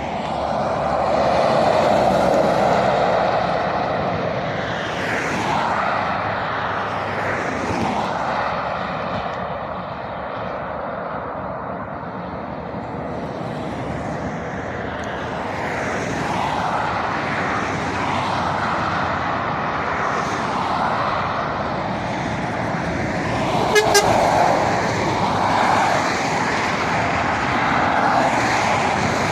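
Road traffic passing at speed, vehicles swelling past one after another with tyre and engine noise, and a short horn toot near the end.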